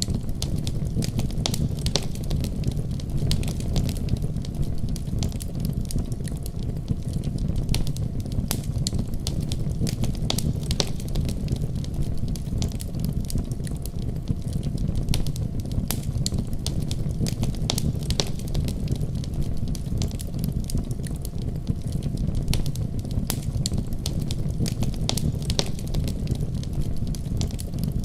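Wood fire crackling, with scattered sharp pops, over a steady low rumble of storm wind.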